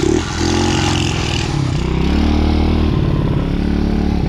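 DB14 youth dirt bike's small engine running on choke just after a cold start, its speed rising and falling unevenly as it warms up.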